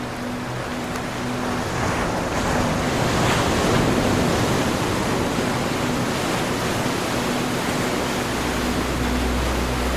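Ocean waves breaking and washing over the shore: a wave swells about two seconds in, crests, and slowly washes out into a steady hiss of surf.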